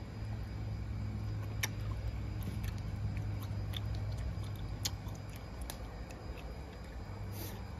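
Close-up chewing with scattered soft clicks and smacks of the mouth, over a steady low hum.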